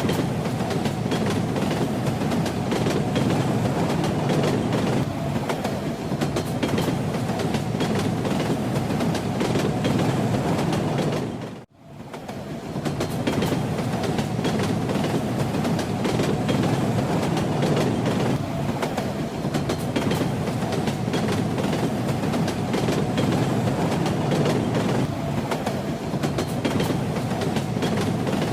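Train running on the rails: a steady rumble with the wheels clacking over the track. About twelve seconds in, it briefly fades almost to silence and then swells back up.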